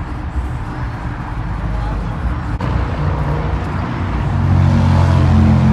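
Car engine running under the noise of a crowd, growing louder about two-thirds of the way through.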